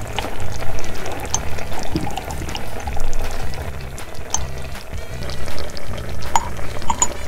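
Background music with a repeating bass line, over the bubbling of water boiling in a tiny pot, with a few small clicks.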